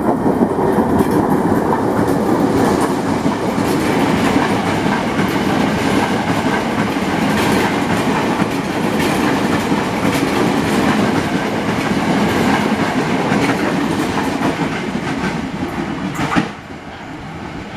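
KRL Commuter Line electric train (an ex-Tokyo Metro 6000 series set) running past close by, its wheels clacking over the rail joints. The sound drops suddenly about sixteen and a half seconds in.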